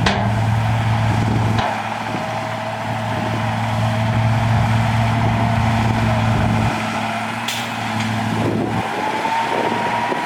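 Heavy diesel earthmoving machine running at work, with a steady low engine note that changes in load a few times and a thin whine that rises in pitch near the end. A sharp clank comes right at the start and another about seven and a half seconds in.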